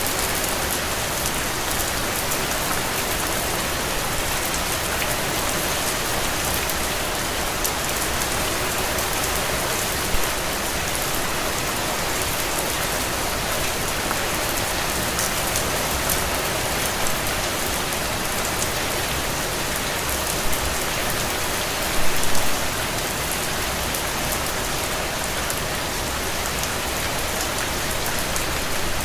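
Steady rain falling on a window, an even hiss of many drops, with a few short, louder drop hits about a third of the way in and again around three-quarters through.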